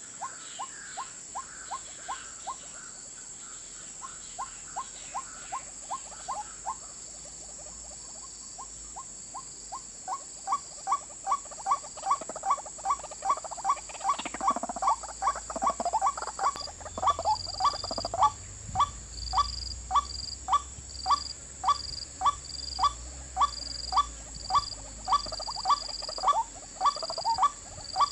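White-breasted waterhen calling: a long series of short rising notes, about two a second, pausing briefly about 3 seconds in and again from about 7 to 10 seconds, then resuming louder. A steady high-pitched tone runs beneath it throughout, and short high chirps join about halfway through.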